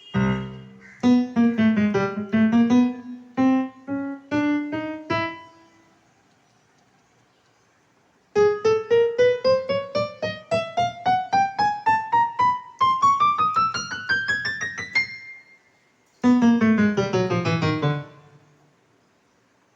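Casio CT-X9000 electronic keyboard playing in a piano voice: a few short runs of notes, then a long run climbing note by note up the keyboard, then a quick run back down, the way the keys are played through to test them.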